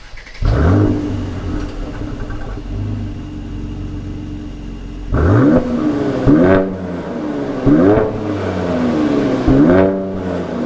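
Mercedes-AMG C43's twin-turbo V6 through the AMG performance exhaust, echoing in an underground car park: it runs steadily, then is revved up sharply four times in the second half, each rev rising and dropping back.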